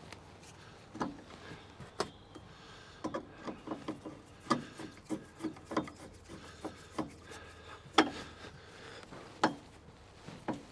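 Spanner work on a bolted metal bracket: irregular metal clicks and knocks, some in short quick runs, as bolts on a tractor cab monitor mount are tightened.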